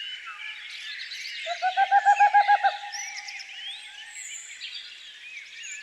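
Several songbirds singing over one another in a busy chorus of chirps and whistles. About a second and a half in, one bird gives a loud, low, rapid trill of about eight notes a second lasting just over a second.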